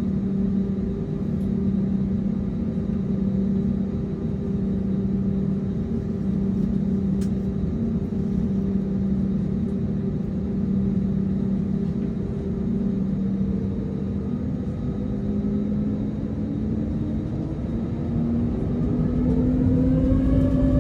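Airbus A320neo's CFM LEAP-1A turbofan engines, heard from inside the cabin, running with a steady low hum and rumble. Near the end the engine tones begin to climb in pitch and grow louder as thrust is increased.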